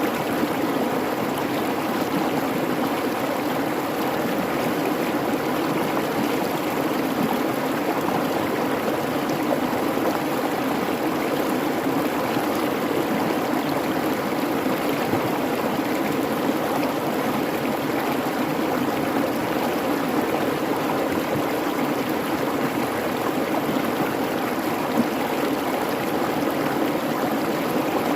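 Creek water babbling steadily over rocks, an even rushing and gurgling with no pauses.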